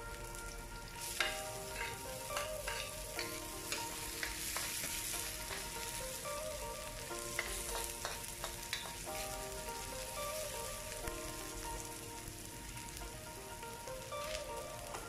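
Chopped garlic and onion sizzling in hot oil in a wok. The sizzle jumps louder about a second in, and a spatula clicks and scrapes against the pan as the onion is stirred.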